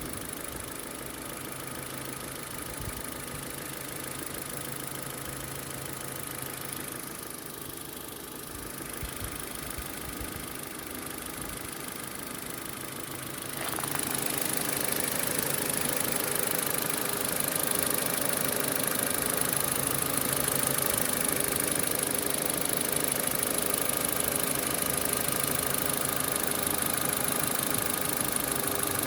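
Ford Focus 2 engine idling steadily. About halfway through, a louder steady rushing hiss starts and holds alongside the idle.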